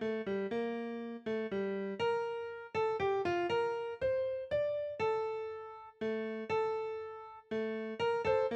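Notation-software playback of a slow piano piece: single struck notes and small chords, each fading away, with a few notes held longer in the middle.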